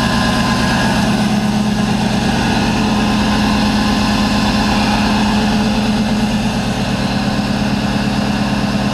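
A 1991 Chevrolet pickup's original engine, with 412,000 miles on it, idling steadily while it warms up after a cold start in 10-degree weather.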